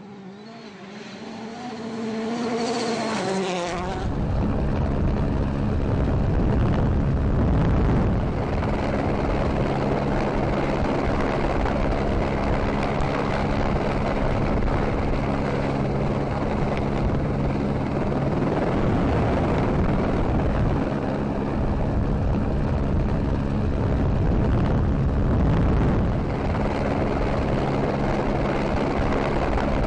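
Engine revs rising and falling faintly, then from about four seconds in a loud, steady engine and road noise with an unchanging pitch.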